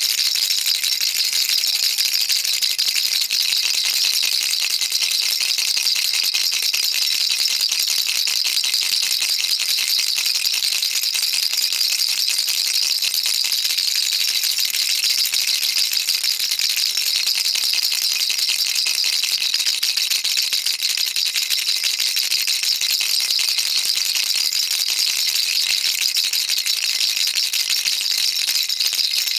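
Baby rattle shaken continuously in a fast, even rhythm: a dense, steady stream of high, fine rattling clicks.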